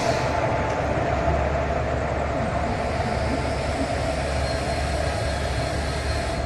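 Electric locomotive rolling slowly along the platform line: a steady rumble of wheels on rail with a low electrical hum. A faint high whine comes in after about four seconds.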